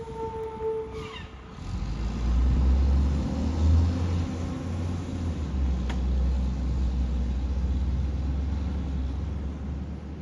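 A short high tone, then a heavy diesel truck engine rumbling. The engine comes up strongly a little under two seconds in and runs on steadily.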